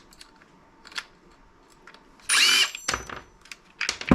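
A power drill/driver runs in one short half-second burst with a shifting whine, amid a few light clicks of parts being handled; a loud low thud comes right at the end.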